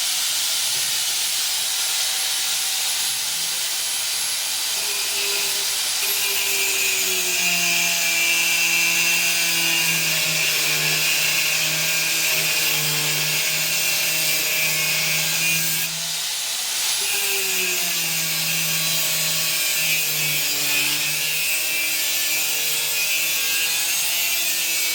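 Angle grinder cutting steel angle, a continuous hissing grind with a motor whine that sags in pitch as the disc is pressed into the cut. About two-thirds of the way through it briefly lets up, then bites again.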